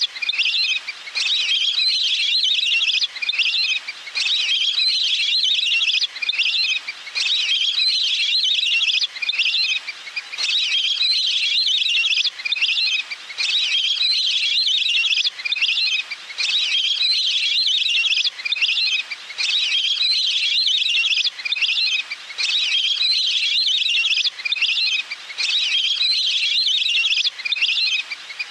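Looped recording of wild-duck calls used as a hunting decoy lure: bouts of rapid, high whistled chirps, each about a second and a half long, repeating over and over with short breaks.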